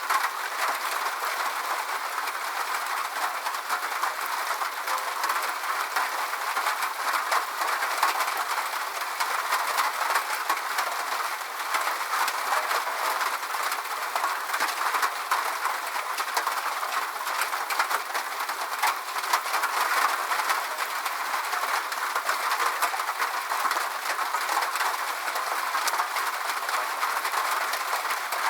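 Steady rain falling: an even hiss dense with the patter of individual drops, and no low rumble.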